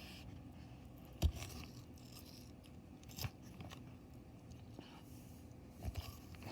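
Sulcata tortoise biting and crunching a watermelon rind: a few sharp crunches, the loudest a little over a second in, others near three seconds and near six, with faint crackling between.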